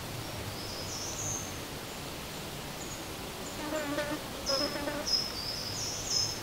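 Outdoor pond-side summer ambience over a steady hiss: short, high-pitched rising chirps from small wildlife, one about a second in, then repeating about twice a second through the second half, with two lower, throatier calls around the middle.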